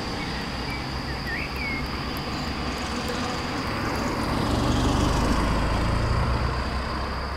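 A motor vehicle's engine running, a low steady rumble that grows louder about four seconds in and eases off near the end.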